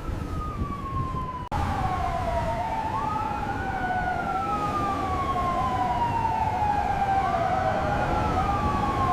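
Emergency vehicle siren wailing slowly, its pitch gliding down and back up, with two siren tones overlapping over a steady low rumble. The sound drops out briefly about a second and a half in.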